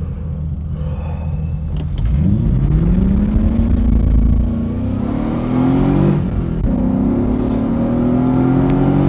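BMW E30's swapped-in V8 engine, heard from inside the cabin. It idles for about two seconds, then revs up hard as the car pulls away from a standstill. The pitch climbs, breaks off at a gear change about six seconds in, and climbs again. The launch is held back by poor traction on the wet road.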